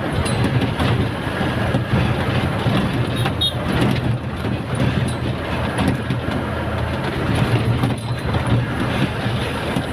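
A truck driving along: steady engine drone with road noise and scattered light rattles and clicks.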